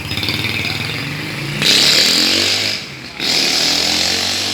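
Racing-tuned Vespa scooter engine with an aftermarket exhaust, running and then revved hard twice, with a short drop in between. The pitch rises as it revs.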